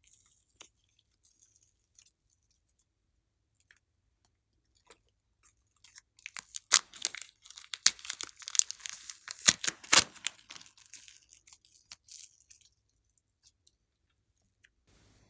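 Slime being squished and stretched by hand, giving a run of sticky crackling and popping that starts about five seconds in, lasts about seven seconds with several sharp pops, then stops.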